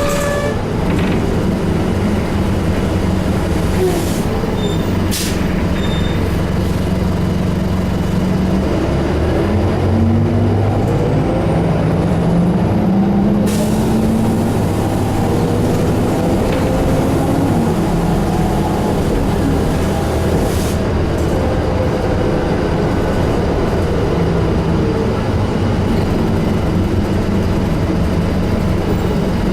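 Inside a 2001 New Flyer D35LF transit bus under way: its Detroit Diesel Series 50 engine and Allison transmission run under a steady rumble, rising in pitch as the bus accelerates and falling again a few seconds later. A few brief, sharp air hisses break in at intervals.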